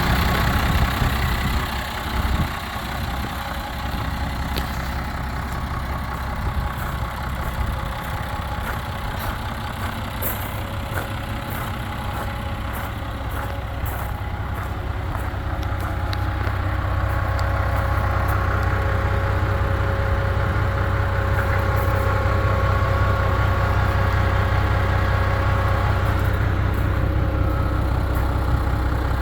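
New Holland TS115 tractor's diesel engine running steadily at idle, growing louder a little over halfway through and holding there, with a few light clicks in the first half.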